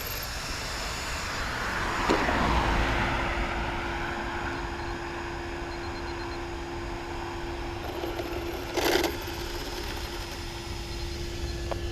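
A road vehicle going by, its noise swelling about two seconds in and slowly fading, with a steady hum running underneath and a brief louder burst near the end.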